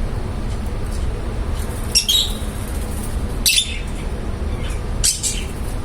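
Lovebirds giving short, sharp chirps about three times, over a steady low rumble.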